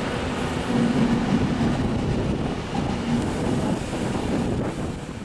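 A train running into a station platform with a steady rumble of wheels and traction, its sound dying away toward the end.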